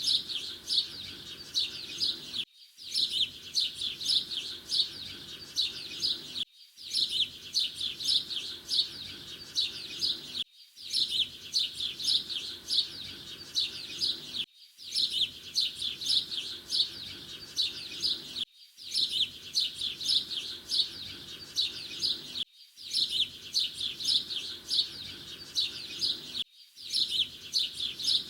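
Canaries singing: dense, rapid chirping trills that break off briefly about every four seconds, the same pattern coming round again each time.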